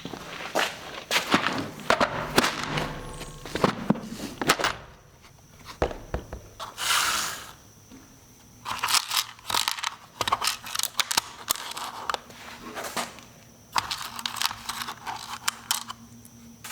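Irregular clatter, knocks and scraping of tools and parts being handled, with a brief hiss about seven seconds in.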